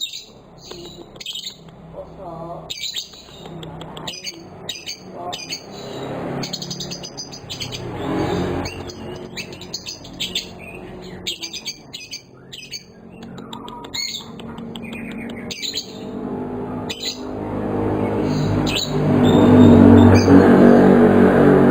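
Young lovebird chattering: rapid runs of short, high chirps and squawks, repeated over and over. A low rumbling noise swells up beneath it in the last few seconds and becomes the loudest sound.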